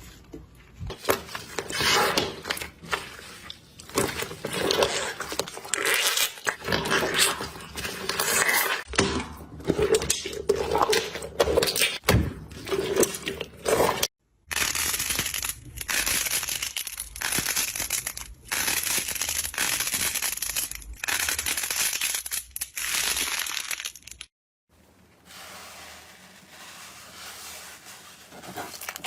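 Slime being squished, stretched and poked by hands, giving sticky crackling, crinkling and crunching sounds. The sound is twice broken by a short silence, and the last part is quieter.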